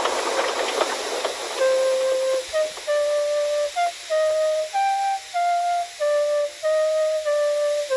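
A hiss for about the first second and a half, then a slow flute melody of held notes stepping up and down.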